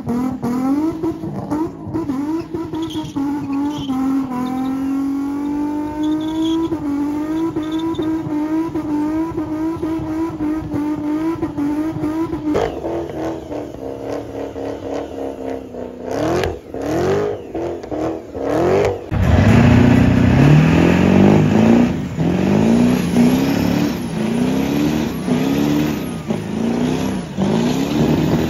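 Car engine revving hard. It is held at high revs with the pitch creeping up for about twelve seconds, then drops. A few sharp blips follow, and then it gets louder, with quick rising revs repeating about once a second.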